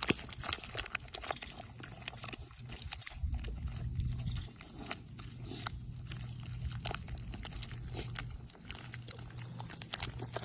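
An animal's sounds, with many short irregular clicks over a low steady hum.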